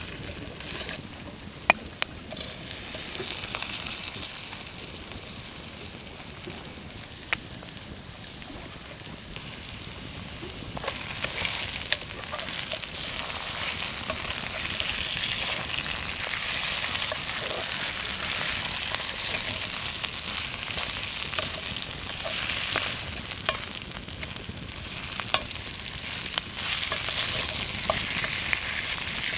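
Goose pieces and vegetables sizzling in a cast-iron Dutch oven while a wooden spatula stirs them. The sizzle becomes louder about a third of the way in, and a few sharp clicks stand out near the start.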